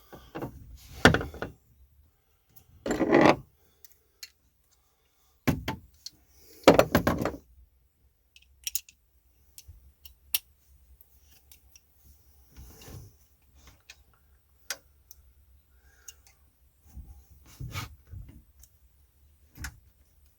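Ratchet wrench clicking and metal tools clanking in a few short bursts, the loudest within the first seven seconds, then lighter scattered clicks and taps: a seized OMC V8 boat engine being worked back and forth to free it.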